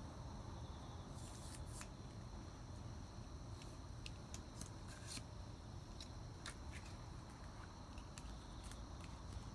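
Small wood campfire crackling faintly, with irregular sharp pops over a low, steady rumble.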